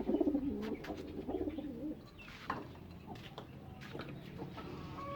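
Domestic pigeons cooing for about the first two seconds, followed by a few scattered sharp clicks.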